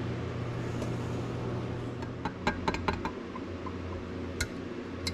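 A steady low mechanical hum, with a few light clicks and taps from about two seconds in, as the plastic molds and baits are handled.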